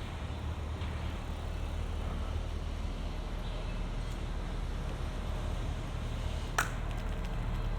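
Steady low rumble of road traffic beside a bicycle on a bridge, with one sharp click near the end.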